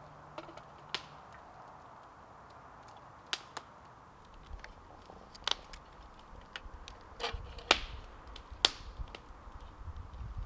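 Campfire crackling: irregular sharp pops and cracks over a faint steady hiss, with a few louder snaps in the second half.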